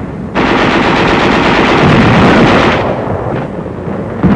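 Rapid machine-gun fire on an old film soundtrack: a dense, loud stretch of shots starts about a third of a second in and drops to a lower level after about three seconds.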